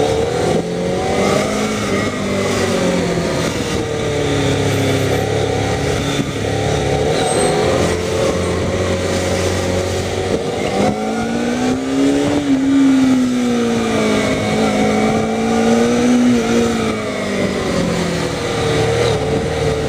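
Kawasaki ZZR400N's inline-four engine rising and falling in pitch as the throttle is opened and eased off while riding, over a steady rushing noise. The biggest rise in revs comes about halfway through and then drops slowly away.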